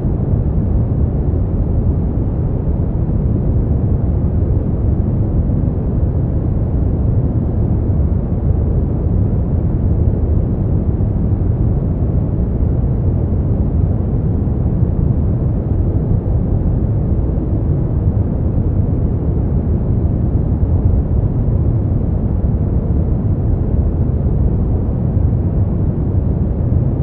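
Continuous generated noise used as a sleep aid: a steady, deep rush weighted to the low end, with no changes, tones or rhythm.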